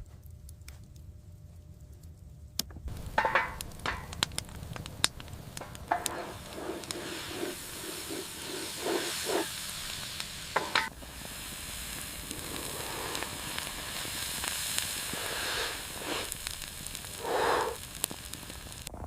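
Kebabs sizzling over a wood fire, with sharp crackles and pops starting a few seconds in; the sizzling hiss grows louder in the second half.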